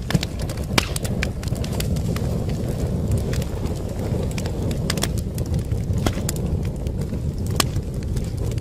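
Wood fire crackling: irregular sharp snaps and pops over a steady low rumble of the burning logs, with a couple of louder pops near the start.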